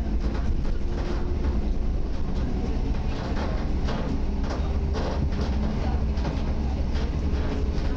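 EN57 electric multiple unit running along the line, heard from on board: a steady low rumble of wheels on rails, with a run of clacks over the track in the middle.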